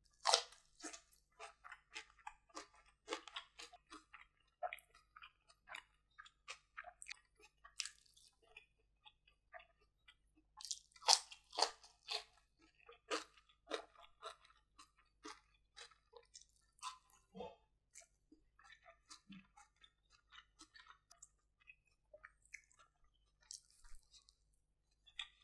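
Close-miked eating: a crunchy bite into a raw cucumber slice with rice at the start, then crunchy chewing with wet mouth clicks. There is another loud run of crunches around eleven seconds in.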